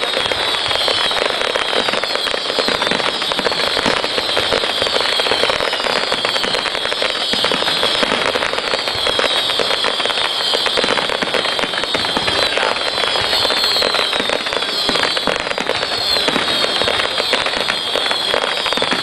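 Fireworks display going off without a break: a dense, continuous crackling of many small bangs, with high whistles sliding in pitch recurring every second or two.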